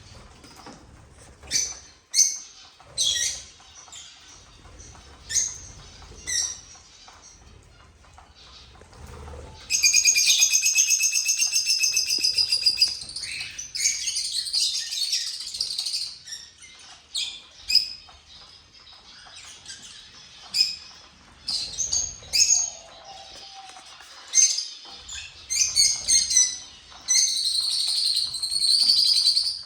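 Small cage birds chirping: scattered short high chirps, breaking twice into long spells of fast, dense chattering, the first about ten seconds in and the second near the end.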